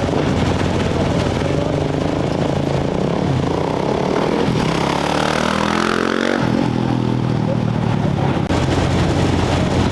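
Off-road race motorcycle engines running at the start line, with one bike revving up sharply and accelerating away from about four and a half to six and a half seconds in.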